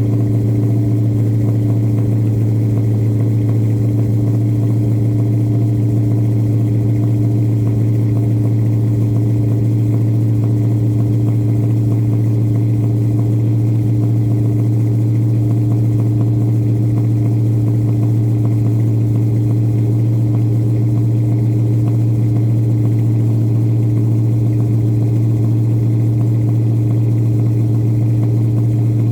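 1970 Chevrolet Chevelle's engine idling steadily and evenly, warming up after a cold start.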